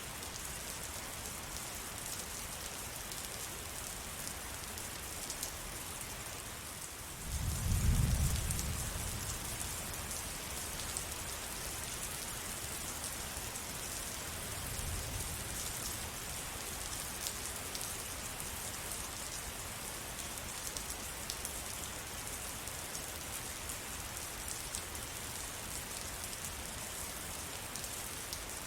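Steady rainfall, an even hiss with fine ticks of drops. A low rumble swells about seven seconds in and dies away over a couple of seconds, with a fainter one around fifteen seconds.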